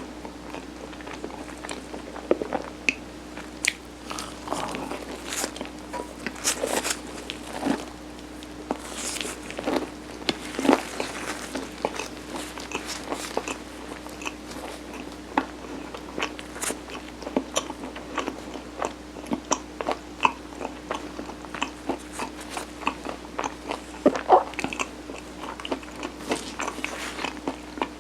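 Close-miked eating of Korean steamed rice cake topped with mung beans: irregular soft bites and sticky chewing with small wet mouth clicks throughout, over a faint steady hum.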